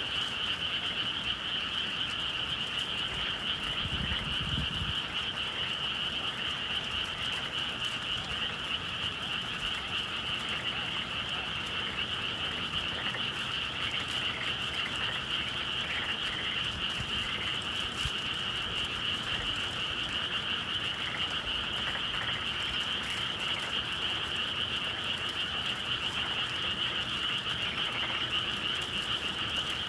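A dense chorus of many frogs calling together without a break, a steady high-pitched trill with lower calls beneath it, typical of a spring evening in the countryside.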